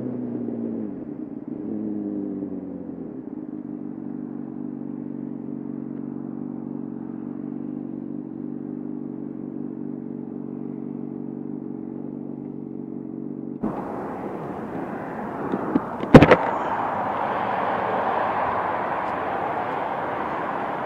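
A vehicle engine slows, its note falling for a few seconds, then runs at a steady pitch. It then gives way abruptly to a rush of road and wind noise, with one sharp loud knock about sixteen seconds in.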